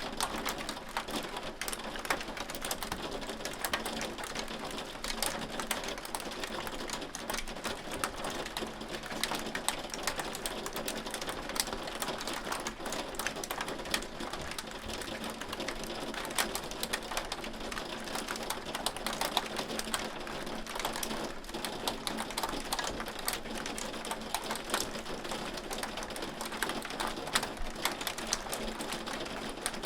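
Hail falling: a dense, irregular stream of hailstones clicking on a hard surface over a steady hiss.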